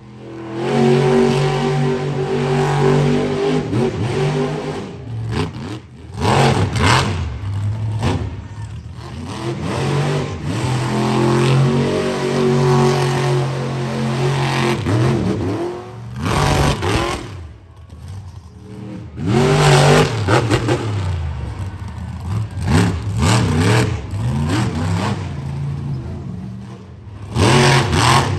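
Monster truck engine revving hard, its pitch rising and falling again and again as the throttle is worked, with several sudden loud bursts of noise over it.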